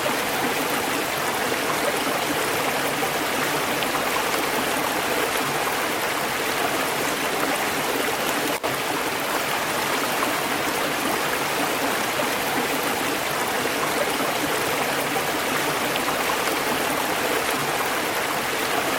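Stream water flowing steadily, a constant rushing and gurgling, with a split-second dropout about eight and a half seconds in.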